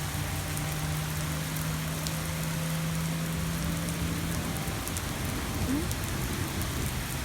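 Steady rain falling, an even hiss throughout, with a low steady hum under it that stops a little over halfway through.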